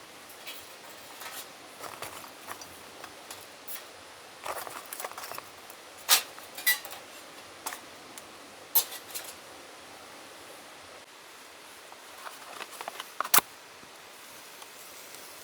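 Scattered light clicks, clinks and knocks of camping gear being handled while preparing a campfire, over a steady background hiss. The sharpest clinks come about six seconds in and again a couple of seconds before the end.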